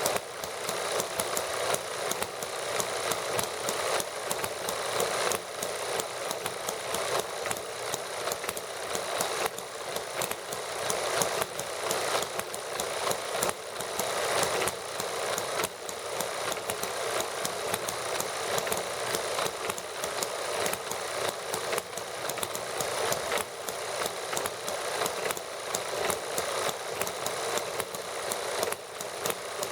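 Small toy model gasoline engines running together: a fast, steady chatter of firing strokes with a light, tinny sound and little low end.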